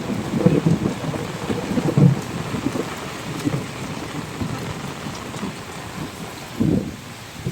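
Rain falling, with an uneven low rumble under it that swells and fades, strongest near the start and again near the end.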